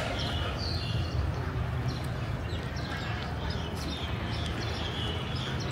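Small birds chirping again and again, short high calls, over a steady low rumble of outdoor background noise.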